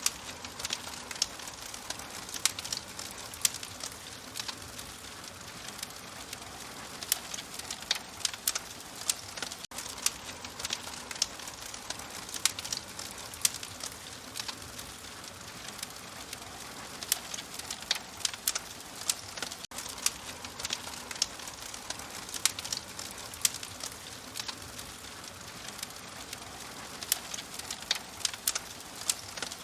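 Open fire crackling, with frequent irregular sharp pops and snaps over a steady soft hiss. The sound drops out for an instant twice.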